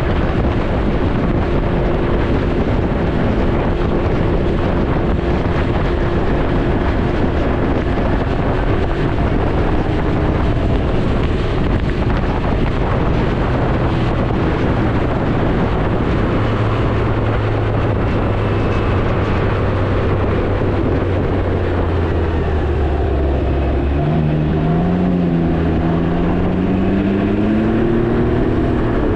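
Can-Am Ryker 900's three-cylinder engine running under way, with heavy wind noise on the microphone. In the last few seconds the engine note climbs in pitch as the bike accelerates.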